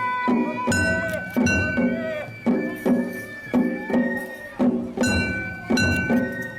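Japanese festival float music (hayashi): a steady beat of drum strikes, roughly one a second or a little faster. Over it run long held flute-like tones and clanging metal hits.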